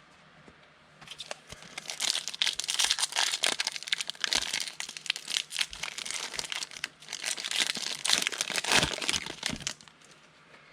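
Foil wrapper of a football card pack being torn open and crinkled in the hands, an irregular run of sharp crackles that starts about a second in and stops shortly before the end.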